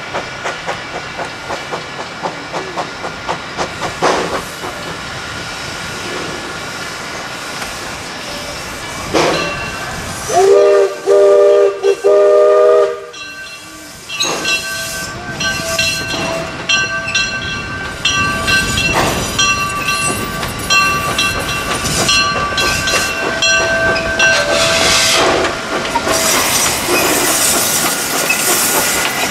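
A train running on the track, with a rhythmic clicking in the first few seconds. About ten seconds in, the train's chime whistle sounds in a few short, loud blasts.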